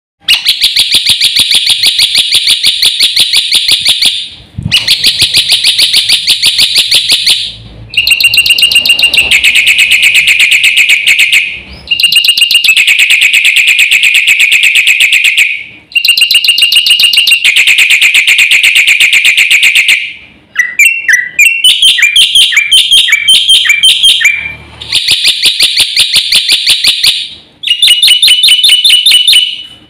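Black-winged myna (jalak putih) singing loud, rapid pulsed trills in bursts of about four seconds with short breaks between them. Around the middle the trills give way to a run of quick, repeated falling notes before the trilling returns.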